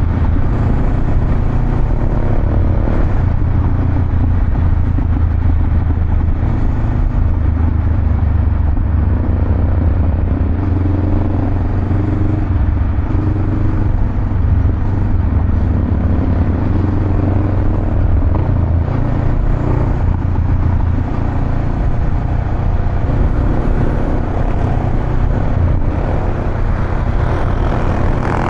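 Honda Rebel 500's parallel-twin engine running steadily through a Vance & Hines aftermarket exhaust, a deep, even rumble with little change in pitch.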